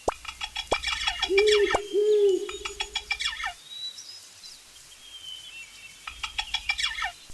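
Birds calling: two bouts of fast, chattering chirps, the first in the opening three seconds and the second about six seconds in, with two low hoots a little over a second in.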